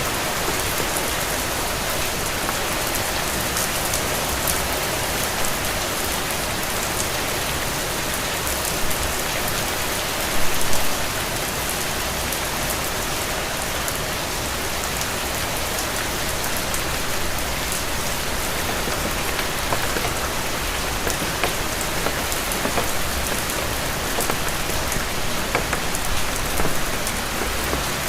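Steady rain falling, an even hiss with scattered sharper drop ticks. There is one brief louder patch about ten seconds in.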